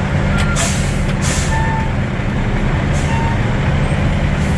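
Water truck's engine running steadily at idle, with short air hisses from about half a second in and again around three seconds. A last backup-alarm beep sounds right at the start.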